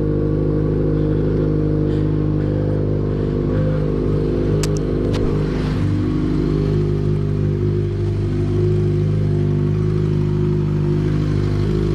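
Yamaha XJ6's 600 cc inline-four engine running at a steady speed, with the odd noise that its owner calls 'something knocking' and that other riders' videos call normal on the XJ after some time. Two short clicks come about five seconds in.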